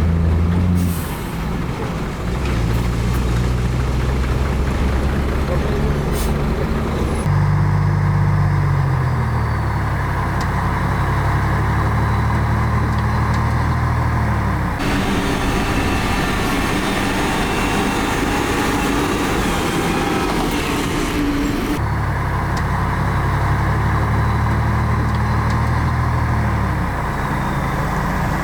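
Heavy diesel engine of earthmoving machinery working under load. Its note drops and changes several times, with abrupt shifts about every seven seconds.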